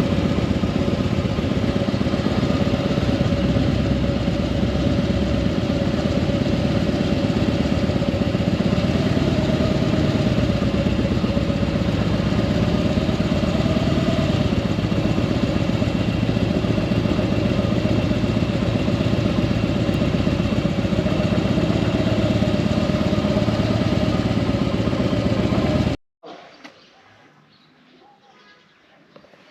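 Motorcycle engine running steadily under a loud, even rushing noise, with one wavering engine tone. It cuts off suddenly near the end, leaving only faint background sound.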